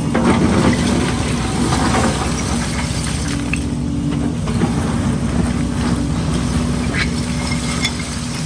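Heavy diesel construction machinery running steadily, a low engine drone with a held hum, with scattered knocks and clanks, several in the first two seconds and a few near the end.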